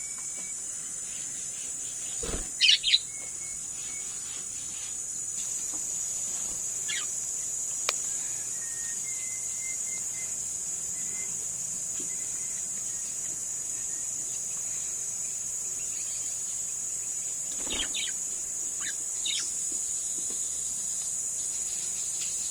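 Budgerigars chirping in a few short, high calls. The loudest pair comes a couple of seconds in, and a few more follow near the end, over a steady high-pitched hum.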